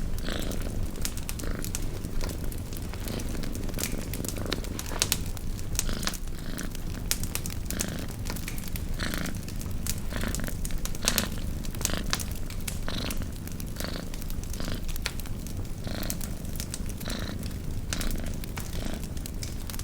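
A cat purring steadily, a continuous low rumble, over a campfire crackling and popping with scattered sharp snaps.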